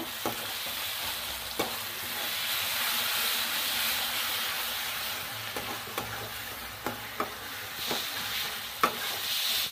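Onions and ginger-garlic paste sizzling in hot oil in a metal kadai as they are stirred, with a metal spatula scraping and knocking against the pan now and then.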